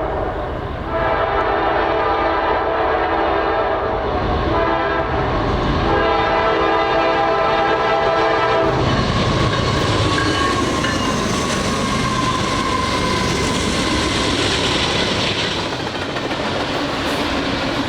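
Locomotive air horn sounds two long blasts, then a train rolls past with steady wheel-on-rail noise and clatter.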